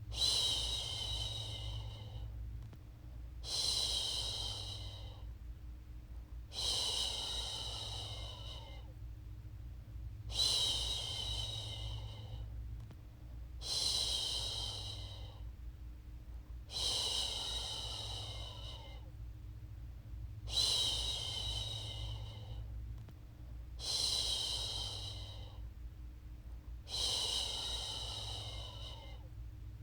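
A woman's voice shushing a baby: a long 'shhh' about every three seconds, nine times, over a steady low hum.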